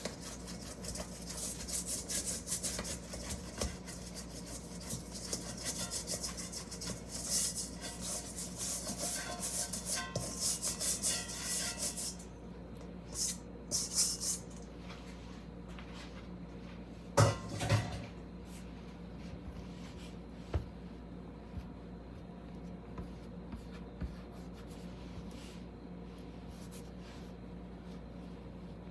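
Food preparation by hand: about twelve seconds of scraping and rubbing with fast small clicks, then one loud knock, then only occasional light clicks over a low hum.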